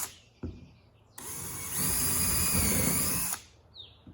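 Power drill pre-drilling a screw hole through a wooden board: one run of about two seconds that picks up speed shortly after starting and then stops. A short click comes before it.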